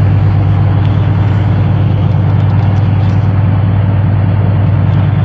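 Boat engine running steadily and loudly, with an even, fast pulse.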